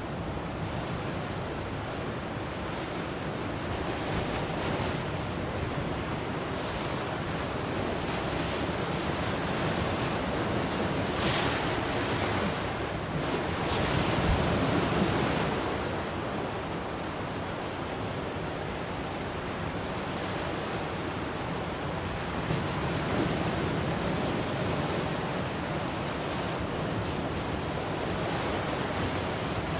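Ocean waves breaking and washing on a shore, a steady surf rush with a couple of louder swells about a third and halfway through.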